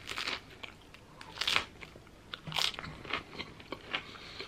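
A person chewing a mouthful of peanut butter, banana and jelly sandwich, with a series of separate wet crunches, the loudest about a second and a half in.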